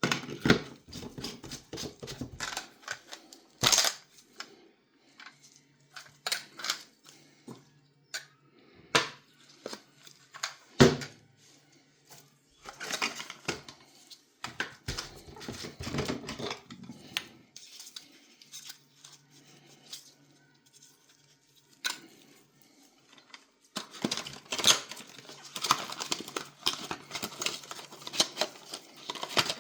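Hard plastic parts of a filter water bottle being handled, unscrewed and pulled apart: irregular clicks, knocks and scrapes. There are two sharper knocks, about four and eleven seconds in.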